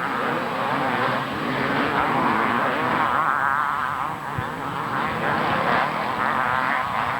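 Several 250cc two-stroke motocross bikes racing, their engines revving hard with the pitch wavering up and down as the riders work the throttles and gears.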